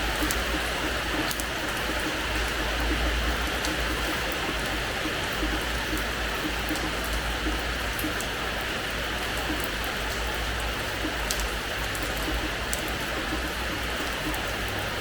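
Steady rain falling on a hard terrace floor, a constant hiss broken by scattered sharp ticks of single drops landing close by.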